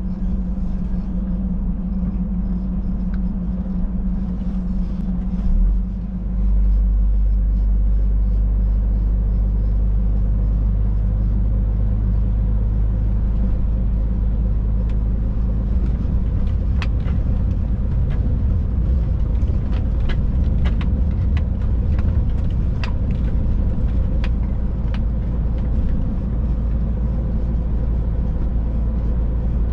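Scania Next Generation truck on the move, heard from inside the cab: a steady low engine drone with road noise. The engine note changes after a brief dip about six seconds in, and in the second half a scattering of short, sharp clicks or knocks comes through.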